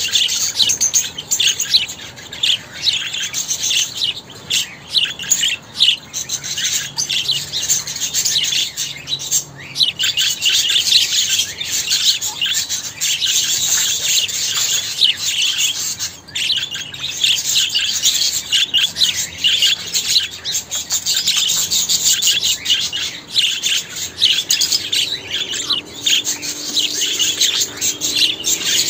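Budgerigars chattering: a continuous stream of rapid chirps, warbles and squeaks.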